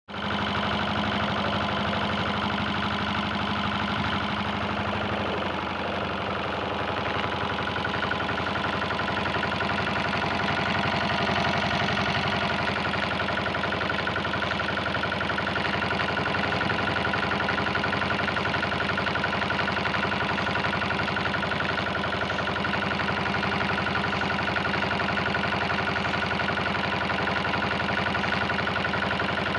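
An engine running steadily, with a slight change in its note about five seconds in.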